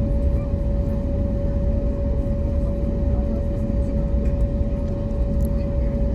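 Steady cabin noise aboard an Airbus A321neo airliner: an even low rumble with a constant hum held at one pitch.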